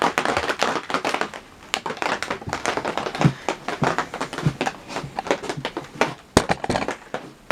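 Rain on the hut's roof, heard from inside as a dense, continuous run of irregular taps.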